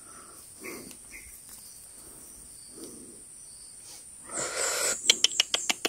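Insects chirring steadily at a high pitch. Near the end a short rustle, then a quick run of about seven sharp clicks.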